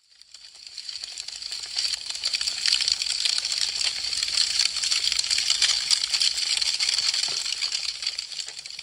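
Wood fire crackling: a dense, fast run of small crackles and pops. It fades in from silence over the first couple of seconds and starts to fade out near the end.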